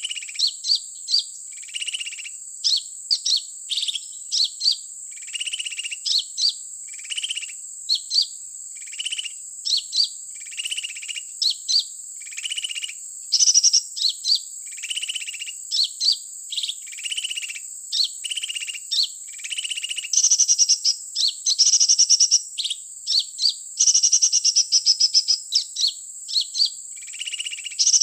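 Recorded sunbird (kolibri) calls played over and over from an MP3 player as a bird-trapping lure. The pattern is a short buzzy note followed by a run of high chirps, repeating every second or two, with louder rapid trills in the last third, over a constant high whine.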